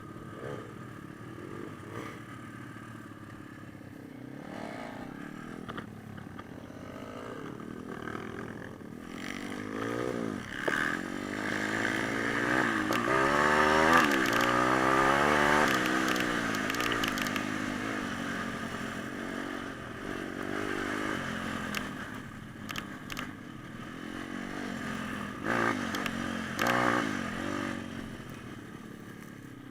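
Pit bike's small single-cylinder four-stroke engine revving up and down, loudest about halfway through and then easing back, with a few sharp knocks and clatters near the end.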